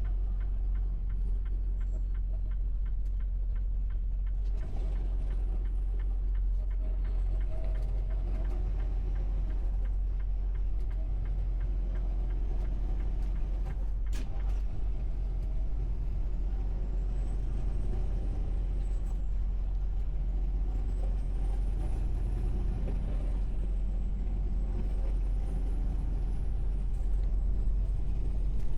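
Semi truck's diesel engine running with a steady low rumble, and a single sharp click about fourteen seconds in.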